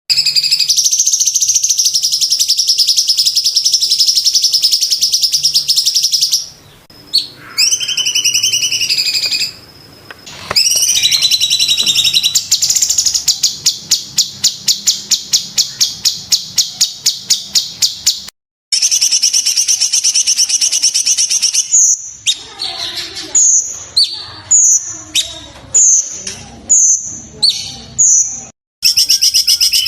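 Cucak cungkok song birds, loud and high-pitched. It opens with long rolling trills, then a fast series of about five notes a second. After a brief gap, it sings a string of short, sharp separate calls.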